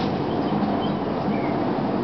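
2004 Gillig Phantom transit bus with its Cummins ISM diesel running and the HVAC on: a steady rumble with a low hum. A few brief high chirps sound over it.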